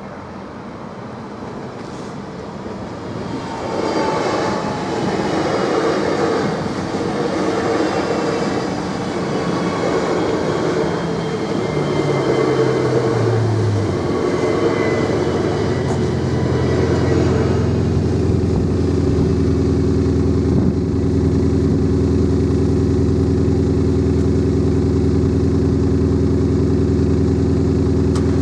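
Electric passenger train passing over a level crossing: wheel and running noise swells and stays loud for several seconds, with a low motor whine stepping down in pitch toward the end of the pass. After it, a steady low drone carries on.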